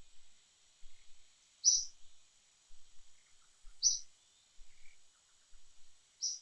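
A bird repeating a short, high chirp about every two seconds, three times, over a steady faint high insect hum.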